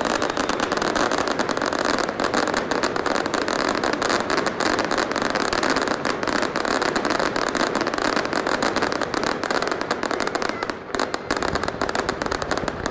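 Fireworks going off in a dense, rapid, continuous crackle of bangs, easing briefly about eleven seconds in.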